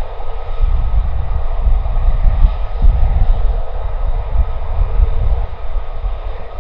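Military jet engine running with a loud, deep rumble, a faint whine above it fading away.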